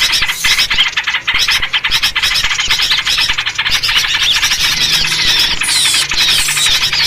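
A dense, noisy chorus of small songbirds chattering and scolding without a break, led by yellow-vented bulbul (trucuk) calls: fast runs of short notes with a few quick sliding whistles near the end. This is the agitated 'ribut' chatter used as a lure recording to draw wild birds in.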